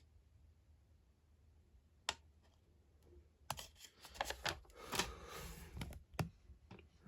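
Small plastic Lego pieces being handled on a table: a couple of separate sharp clicks, then a quicker run of clicks and tapping with some rustling.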